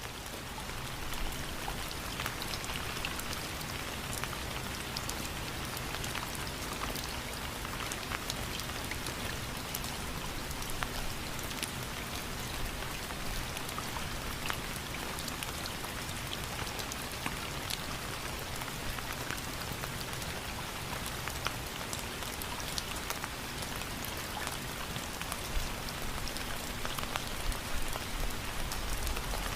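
Steady rain falling, an even hiss scattered with the clicks of individual drops striking close by, fading in over the first second.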